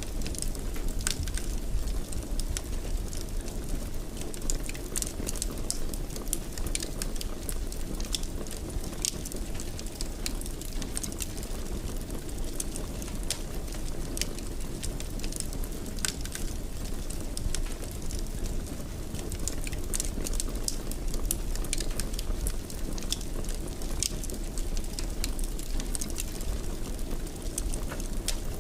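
Wood fire burning steadily in a fireplace: a low, even rumble of flames with frequent sharp crackles and pops at irregular intervals.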